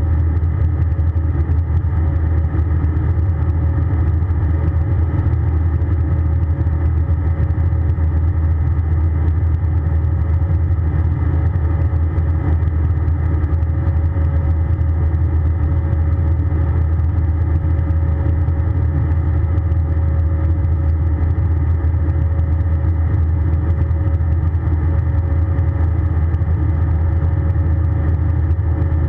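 Steady cabin noise of an Airbus A320 with its jet engines running: a loud, even low rumble with a steady hum over it, unchanging throughout.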